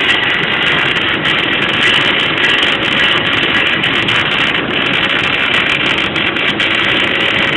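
MIG (GMAW) welding arc crackling and sizzling steadily while laying a plug weld on a steel truss.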